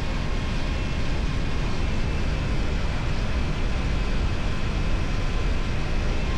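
Motorcycle fitted with an Akrapovic exhaust running at a steady speed, with heavy wind rush over the microphone.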